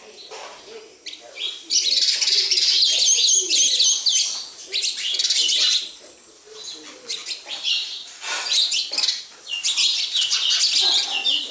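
Several sparrows chirping together in dense, overlapping bursts, with a quieter lull around the middle before the chirping picks up again.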